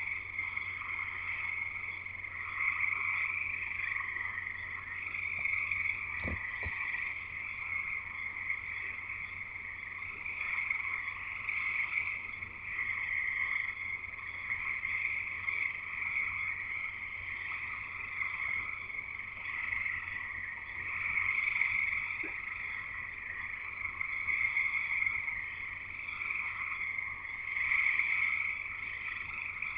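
Dense chorus of many frogs calling at once, a continuous wall of overlapping high trills that swells and eases every few seconds. A single brief thump sounds about six seconds in.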